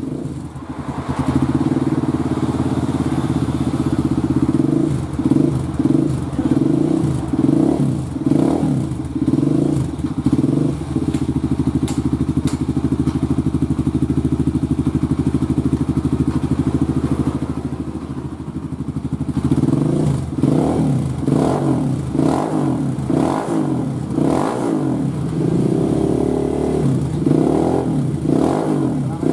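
Kawasaki KLX motorcycle's single-cylinder engine running through a GP7 aftermarket exhaust. It is blipped in a run of quick repeated revs, settles into a steady idle for several seconds around the middle, then is revved in quick blips again near the end.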